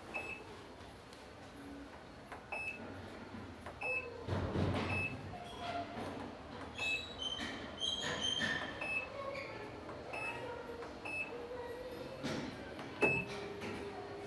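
Short high electronic beeps at irregular intervals, about ten of them, like buttons being pressed on a top-loading washing machine's control panel, with a few clicks and a dull thump about four seconds in.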